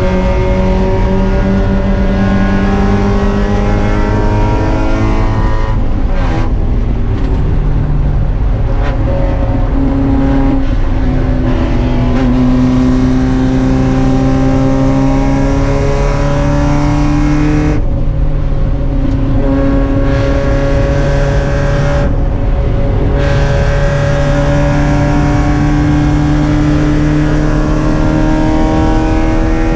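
Spec Miata's four-cylinder race engine running hard under load, its note climbing and falling slowly, with brief breaks about 6, 18 and 22 seconds in.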